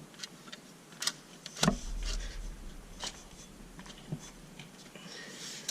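Scattered knocks and clicks of hands and tools working on tractor clutch parts, the loudest near the end, with a low rumble in the middle.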